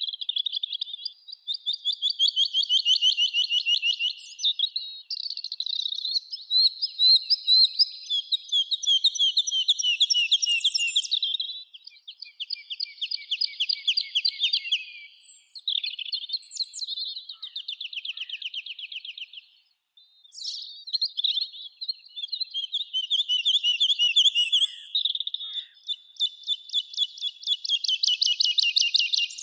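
Songbirds singing: long, fast trills of rapidly repeated high notes, one phrase after another with short pauses, at times overlapping.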